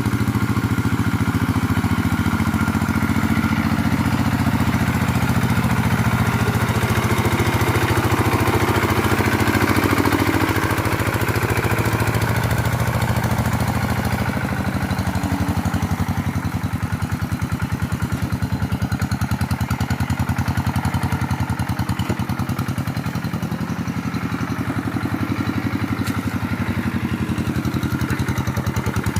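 Two-stroke chainsaw engine running steadily, a little quieter from about halfway.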